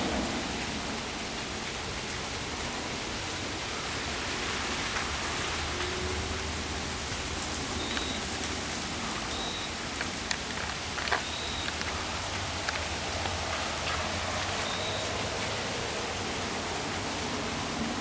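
Steady rain hiss, with a few faint ticks and some short high chirps.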